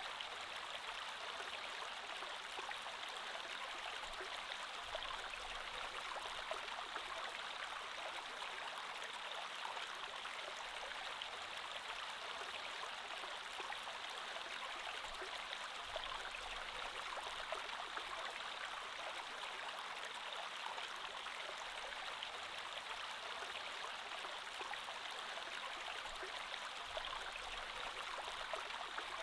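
Creek water flowing steadily over stones, an even rushing babble with small splashes and trickles throughout.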